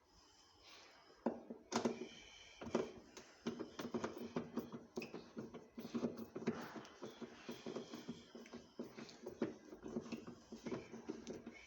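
Irregular clicks, knocks and clatter of parts and tools being handled while a washing machine is taken apart, with no motor running.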